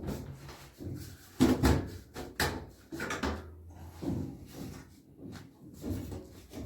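Irregular knocking and clattering of hand tools and metal parts during work on an LG washing machine's drum bearings, several knocks a second with short pauses.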